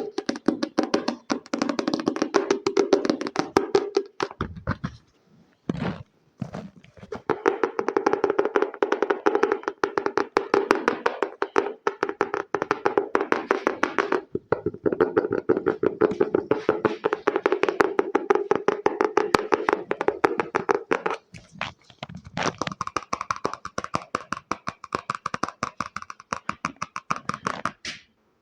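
Fast fingertip tapping on an object, many taps a second, with a hollow knocking tone. It pauses briefly twice after about five seconds, and from about two-thirds of the way through the taps turn brighter and sharper.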